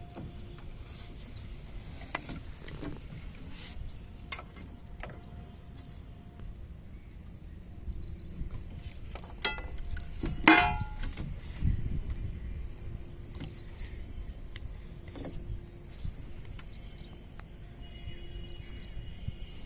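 Outdoor ambience: a steady high insect chirring over a low rumble, with scattered knocks and one louder noise about ten and a half seconds in.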